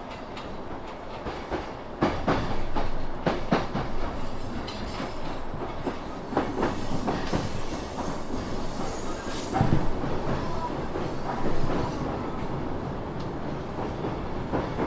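Electric commuter train running at speed, heard from inside the carriage: a steady rumble with the wheels knocking over rail joints and points where another line joins. The loudest knocks come about two seconds in and again near ten and twelve seconds.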